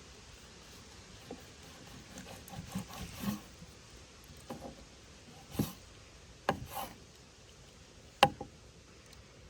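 A series of knocks and clicks over a low steady hiss. A soft, rustly cluster comes about two to three seconds in, then single sharp knocks follow, the loudest about eight seconds in.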